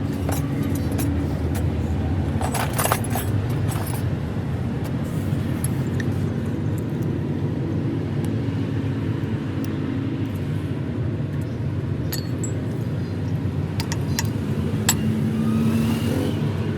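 An engine running steadily at a low pitch, with scattered metallic clinks and knocks, a cluster about three seconds in and more later on.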